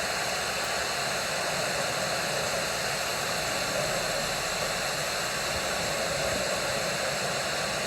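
Steady, even hiss with no breaks or separate sounds.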